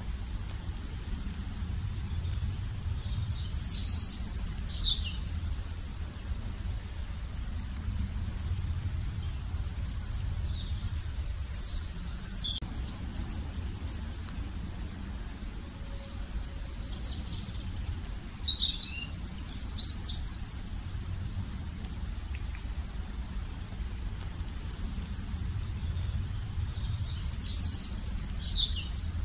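Songbirds singing in short, high chirping phrases, with louder bursts every several seconds and fainter chirps between, over a low steady rumble.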